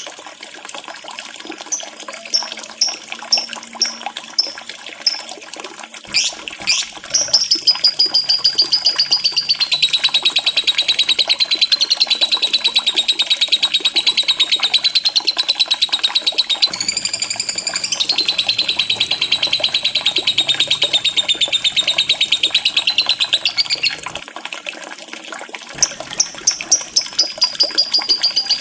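Lovebird singing: quick high chirps at first, then a long, unbroken, rapid chattering trill lasting well over ten seconds, with more short chirps near the end, over a trickle of running water.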